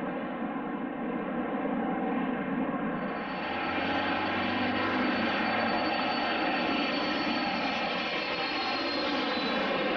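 Jet aircraft engines running loud and steady. From about three seconds in, the sound brightens and a thin high whine slowly falls in pitch, as the aircraft passes.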